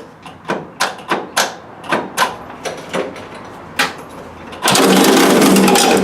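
Ford 3000 tractor's three-cylinder diesel engine being started: a run of sharp knocks, two or three a second, then near the end the engine fires and runs loud with a clatter. The owner blames the clatter on a loose radiator cap hitting the fan blade.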